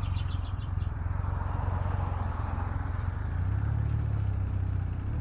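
Can-Am Ryker Rally's engine running steadily as the motorcycle pulls away, a low hum that grows louder about three and a half seconds in.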